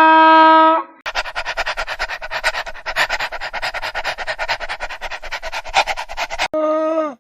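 Animal calls: a steady, pitched call lasting about a second, then a rapid pulsing call at about nine pulses a second for some five seconds, then a short pitched call that drops in pitch at its end.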